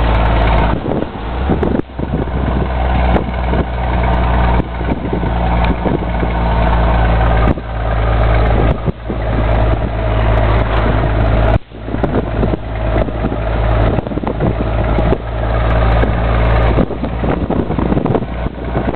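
Scania 124 truck's inline-six diesel engine running under load while driving, with several brief sudden drops in the engine note, as when the throttle is lifted to change gear.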